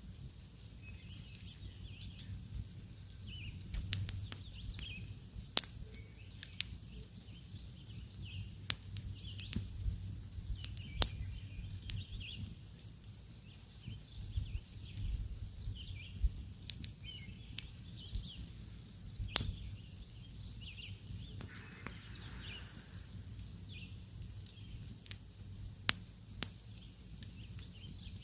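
Wood campfire crackling, with irregular sharp pops, over a low steady rumble. Small birds chirp repeatedly in the background.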